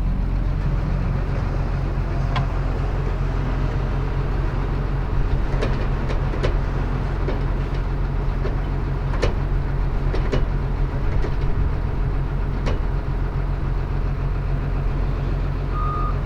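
Heavy diesel farm machinery engine running steadily close by, with a handful of sharp metallic knocks now and then. A reversing alarm starts beeping near the end.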